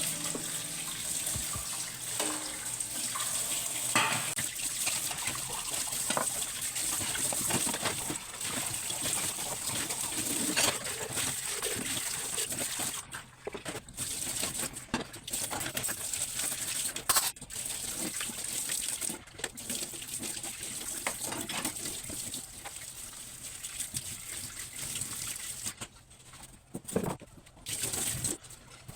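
Water running from a tap into a sink during dish-washing, with occasional knocks and clinks of dishes. The flow stops briefly about halfway through and again near the end.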